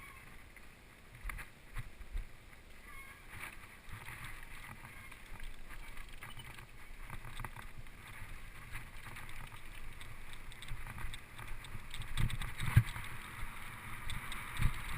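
Rustling handling noise from a hand-held camera carried on a walk, with some wind on the microphone and scattered light knocks. A few dull thumps come about twelve to thirteen seconds in.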